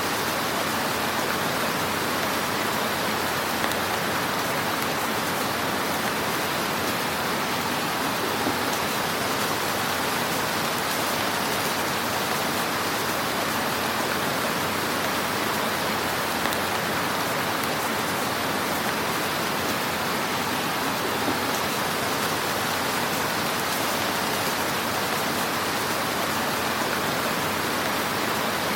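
Wood fire burning in a fireplace: a steady hiss with a few faint crackles.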